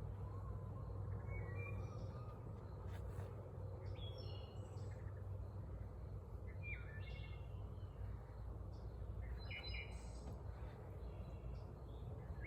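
Birds calling in short chirping phrases, about four or five times, over a steady low hum.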